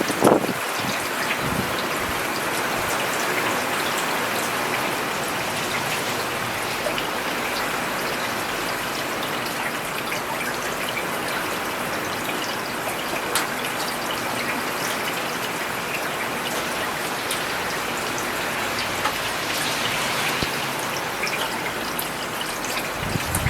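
Steady rain falling on a paved urban road: a dense, even hiss with scattered taps of single drops. A brief, louder low thud comes right at the start.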